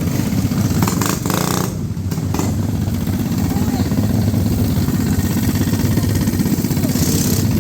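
Minibike engine idling steadily with a loud, rapid rumble: "hella loud."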